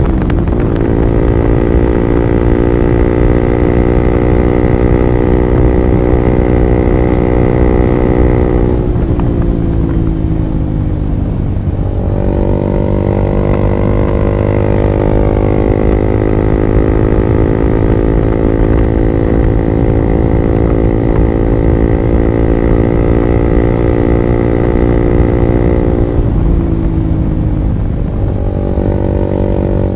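Honda CB150R's single-cylinder engine through an R9 Alpha Series aftermarket exhaust, ridden at a steady held engine note. The note falls away about nine seconds in, picks up again about three seconds later, and dips and rises once more near the end.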